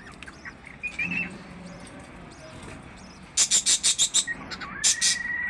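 Small birds calling: scattered short chirps, then a quick run of about eight harsh, high calls a little over three seconds in, and a whistled call that rises and then holds steady near the end.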